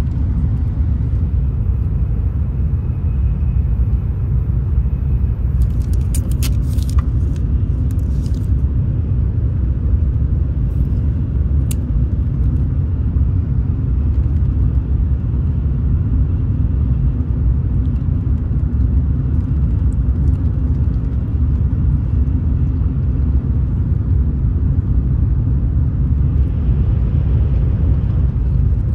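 Steady low rumble of a Shinkansen bullet train heard from inside the passenger cabin, with a few short clicks around six to eight seconds in and once near twelve seconds.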